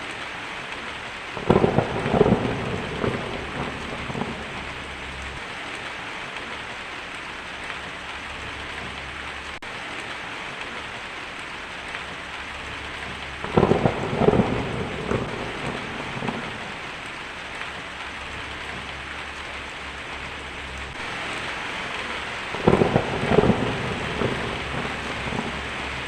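Steady rain with three peals of thunder: one about a second and a half in, one about thirteen seconds in, and one near the end, each swelling loud and then fading over a few seconds.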